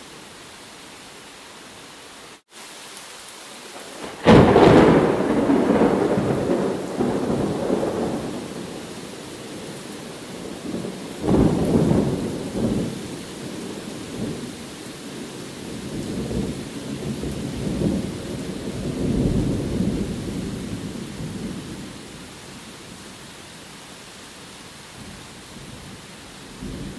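Steady rain with a sudden clap of thunder about four seconds in that rolls and fades over several seconds. Further rolls of thunder follow and die away, leaving only the rain for the last few seconds.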